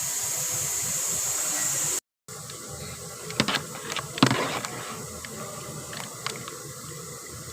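A steady hiss that cuts off abruptly about two seconds in, followed by a quieter background with a few sharp clicks and knocks from hands working on the engine wiring.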